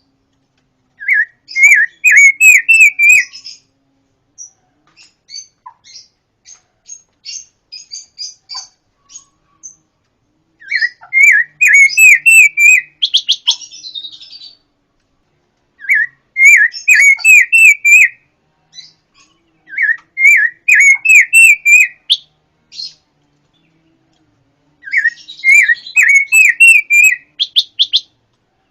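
Pancawarna songbird singing in loud bursts of rapid, repeated chirps, each burst lasting two to three seconds, with fainter scattered notes between the bursts.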